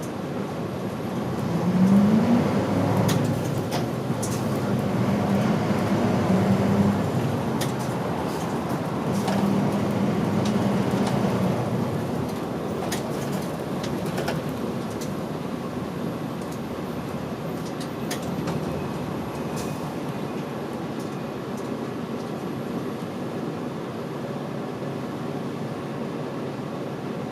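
Route bus engine heard from inside the cabin as the bus pulls away, its pitch rising about two seconds in. It then drones steadily under load and eases to quieter running after about twelve seconds. Occasional light rattles and clicks come from the bus body.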